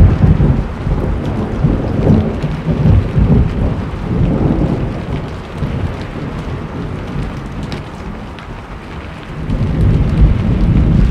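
Steady heavy rain with thunder rumbling under it. The rumble is strongest at the start, dies down in the middle and builds again near the end.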